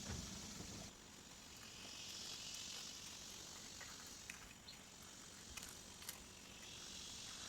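Insects, crickets or similar, buzzing in a steady high chorus that swells and fades, with a few faint clicks. A low hum cuts out about a second in.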